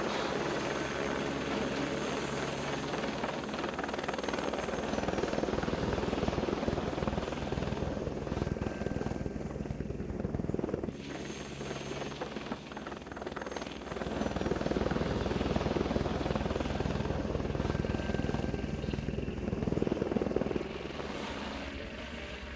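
Helicopter running steadily, its low rotor and engine drone under a dense rushing noise. The sound eases off for a few seconds about halfway through, then swells again and fades near the end.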